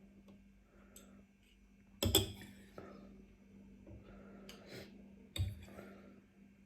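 Eating sounds of spicy noodles and rice cakes: a few short, sudden mouth and bowl noises, the loudest about two seconds in and another near five and a half seconds, over a faint steady hum.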